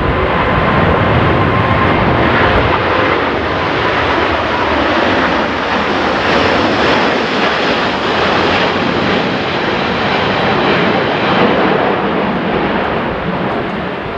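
Jet airliner's engines running loud and steady as it passes close by, with a faint whine in the first couple of seconds. Strong wind buffets the microphone.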